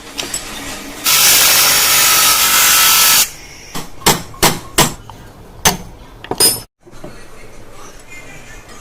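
Workshop tool work on moped parts: a loud rushing noise for about two seconds, then five or six sharp knocks a fraction of a second apart.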